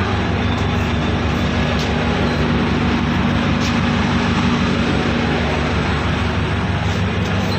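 Passenger train running, heard from inside the coach: a steady rumble with a low hum underneath.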